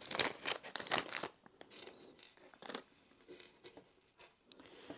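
Small plastic bag crinkling as it is handled, dense crackling for the first second or so, then lighter rustles and small clicks.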